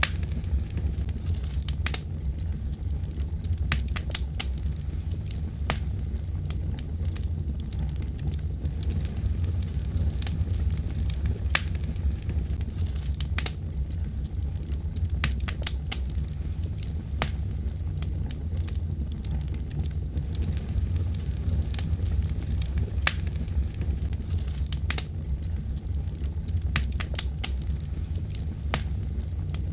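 Wood fire burning: a steady low rumble of flames with irregular sharp crackles and pops, several in quick succession at times.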